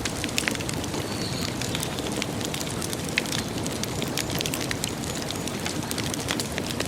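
Wood campfire crackling, with frequent sharp irregular pops over a steady hiss of burning.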